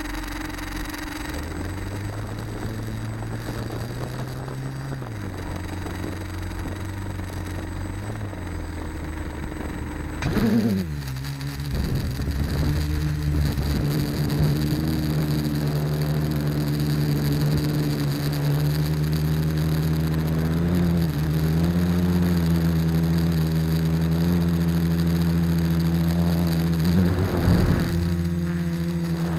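Electric motors and propellers of a quadcopter humming. They turn slowly at first, then about ten seconds in the pitch sweeps up and the hum grows louder as the throttle is raised for flight. After that the pitch wavers up and down as the motor speeds keep changing.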